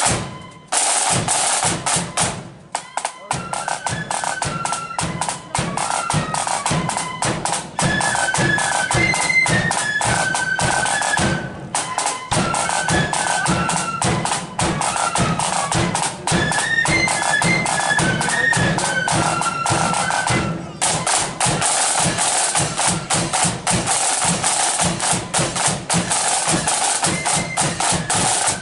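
Marching flute band playing a march: snare and bass drums beat out rapid rolls and strokes while flutes play a high, stepping melody. The flutes stop about three quarters of the way through, leaving the drums playing alone.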